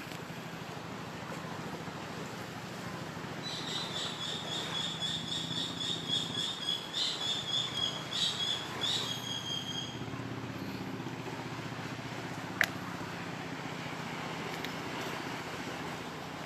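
A bird chirps in a fast, repeated series for several seconds over a steady low outdoor rumble, with one sharp click about three-quarters of the way through.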